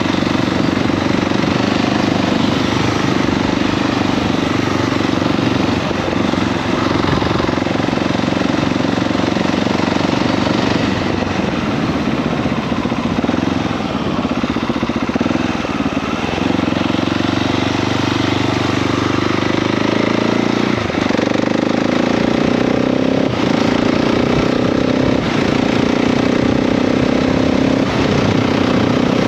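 KTM 690 SMC R single-cylinder supermoto engine running under way. Over the last several seconds its note rises steadily as the bike accelerates.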